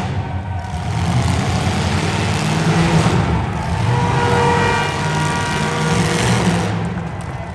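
Demolition derby car engines running and revving, with a steady tone rising above them for a couple of seconds mid-way.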